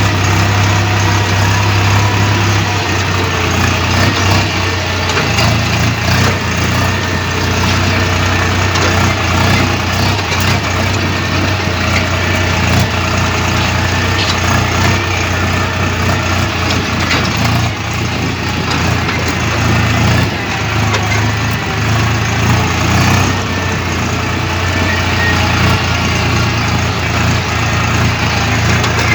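Diesel tractor engine idling steadily: a constant low hum.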